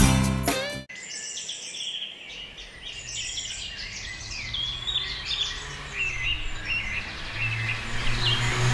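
Small birds chirping, many short quick calls over a low steady hum. Guitar music cuts off about a second in, and a rising hiss builds near the end.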